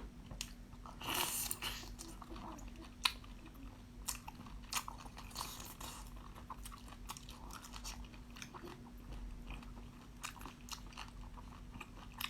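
A person eating seafood close up: chewing, biting and crunching, with many small sharp clicks, a louder crackly crunch about a second in and a sharp crack about three seconds in. A faint steady hum sits underneath.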